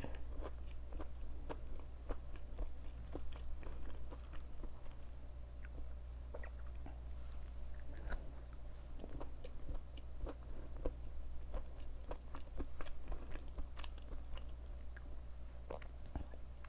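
Close-up chewing of a thick, crispy breaded KFC Beyond vegan fried chicken nugget: irregular crunching and small clicking crackles of the fried coating, with mouth sounds between.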